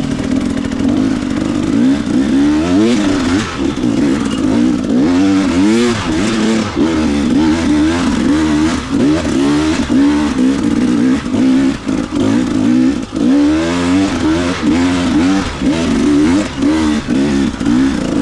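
Dirt bike engine revving hard, its pitch rising and falling rapidly again and again as the rider works the throttle climbing a steep hill.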